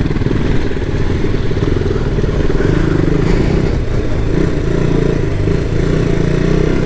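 KTM Duke 200 motorcycle's single-cylinder engine running steadily, heard close up from the rider's helmet.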